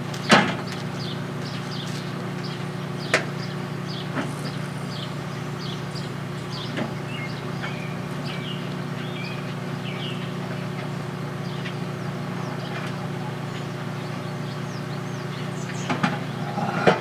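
Microwave oven running with a steady low hum, an LED bulb inside lit up by it. A few sharp pops break through: one just after the start, others around three and four seconds in, and a cluster near the end.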